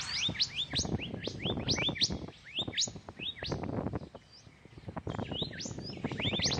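Many small birds chirping together: quick, sharp upward-sweeping chirps, several a second and overlapping, with a brief lull about four seconds in. Low rustling and knocking noise runs underneath.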